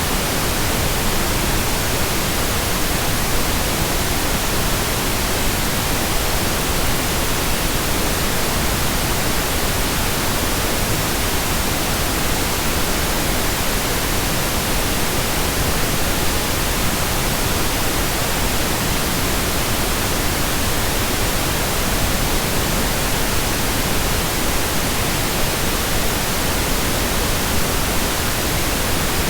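Steady pink noise: an even, unchanging hiss across the whole range of pitch, with no other sound.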